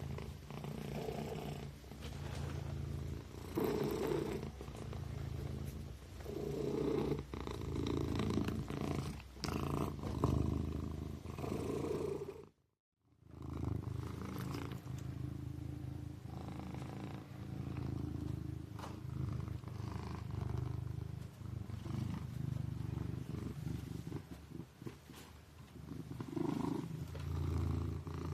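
Kitten purring steadily in a low, pulsing rhythm. It breaks off completely for under a second a little before halfway, then resumes.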